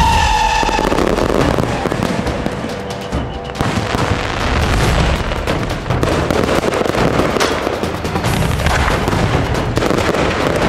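Firecrackers and fireworks going off in a dense, unbroken crackle of rapid pops and bangs. A high whistle dies away in the first second.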